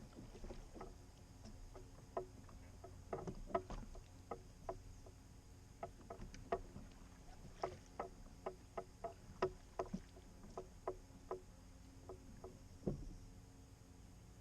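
Faint, irregular small knocks and clicks of a wooden rowing skiff on calm creek water, one to a few a second, over a quiet background hiss; the loudest knock comes near the end.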